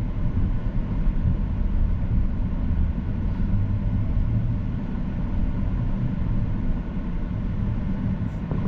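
Steady rumble of a Boeing 737-800's jet engines heard inside the passenger cabin, even throughout with a faint steady hum.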